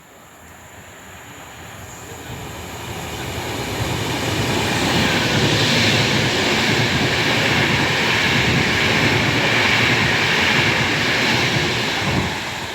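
A 9-car Class 390 Pendolino electric train passing through the station: the rush of its wheels on the rails builds over the first few seconds, holds loud, and starts to fade near the end.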